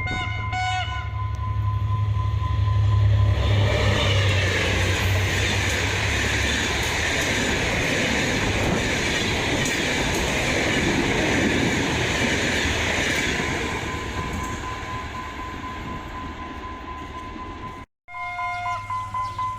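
Henschel diesel locomotive under heavy throttle hauling a fast train: a deep engine rumble, followed from about three seconds in by a long rush of wheels and carriages going by, fading away near the end.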